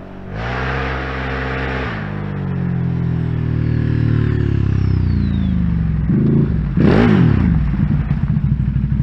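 Can-Am Outlander ATV with an aftermarket exhaust, pulling hard under load, very loud. The engine note then eases and falls in pitch over several seconds. Two quick throttle blips come near the seven-second mark, and it settles to a steady, lumpy idle.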